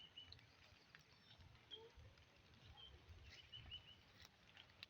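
Near silence with faint short bird chirps every second or so, over a faint low rumble.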